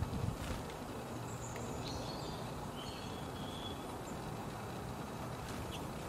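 A few faint, short, high bird chirps from small garden birds over a steady low background rumble, with a brief low bump at the start.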